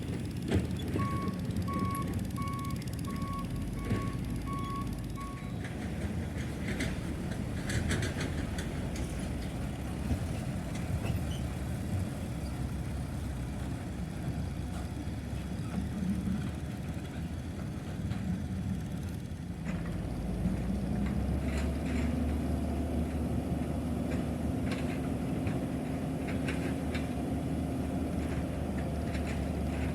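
Heavy diesel machinery at work: a reversing alarm gives about eight short, evenly spaced beeps over the running engines, with scattered clanks. About twenty seconds in, an engine runs up to a louder, steady note.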